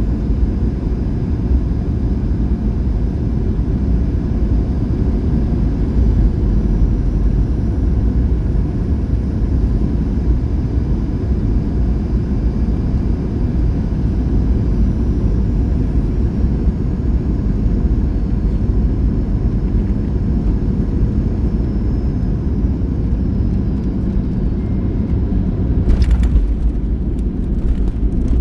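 Cabin noise of a Boeing 737-800 on final approach: a steady low rumble of airflow and engines, with a faint high whine that slowly falls in pitch. About 26 s in, the main wheels touch down with a brief jolt, followed by rougher rolling noise from the runway.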